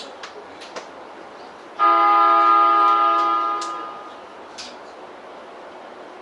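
A train horn sounding one steady blast of about two seconds, starting abruptly and fading out, over scattered light clicks.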